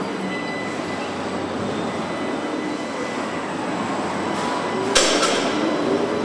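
Steady machine noise on a truck assembly plant floor. A sharp metallic clank comes about five seconds in, followed by a brief clatter.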